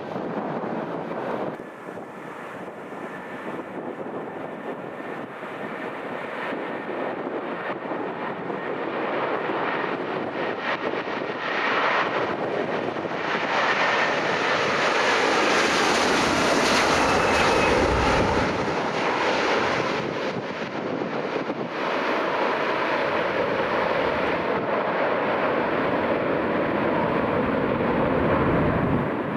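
Jet airliner's engines passing close by, the roar building over about fifteen seconds to a peak around the middle and staying loud afterward, with a faint high whine that drops a little in pitch as it goes by.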